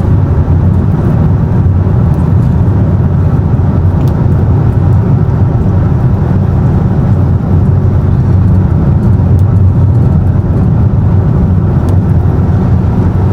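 Car cabin noise while driving at highway speed, about 90 to 100 km/h: a steady, loud low rumble of tyres, engine and wind, with a few faint ticks.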